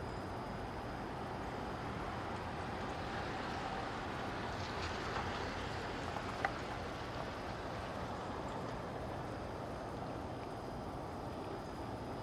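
Steady low background noise with no distinct event, and one faint click about six and a half seconds in.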